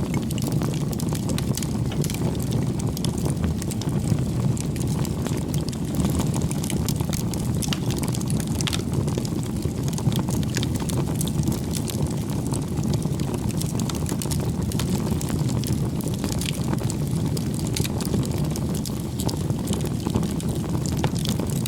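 Bonfire burning: a steady low rumble of flame with frequent small, sharp crackles and pops from the burning wood.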